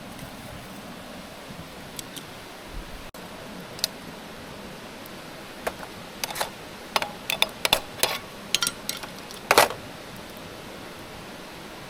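A quick run of about a dozen sharp clicks and light knocks, bunched in the second half, the loudest near the end, over a steady low hiss.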